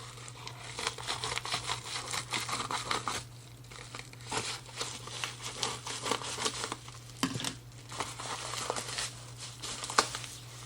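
Packaging crinkling and crackling as it is handled and opened, in dense irregular crackles, over a steady low hum.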